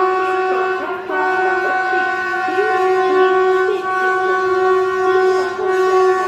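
Locomotive air horn held in one long, steady blast, several notes at once, that briefly falters about a second in; this is the warning of a through train passing the platform.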